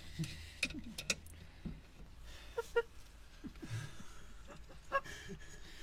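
Scattered sharp clicks and knocks of metal tools and clamps on brake parts, a couple of them ringing briefly, over a steady low hum.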